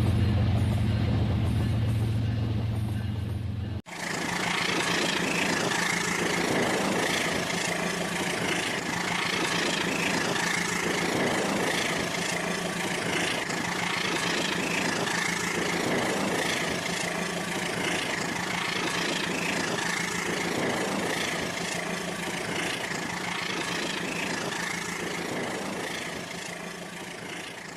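Small electric motor of a battery-powered toy train whirring steadily as it runs along plastic track, with a pulsing clatter every second or two. Before this, for about the first four seconds, a low hum plays and then cuts off abruptly.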